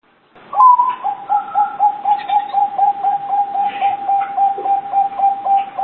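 Zebra dove (perkutut) cooing: a higher opening note, then a fast run of short, even coos at about four a second.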